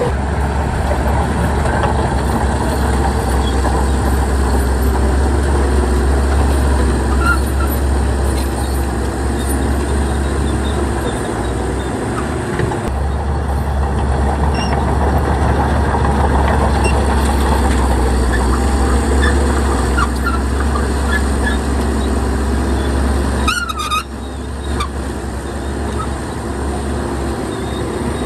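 Heavy diesel earthmoving machinery running steadily under load, a bulldozer and dump trucks working sand, with a deep continuous engine rumble.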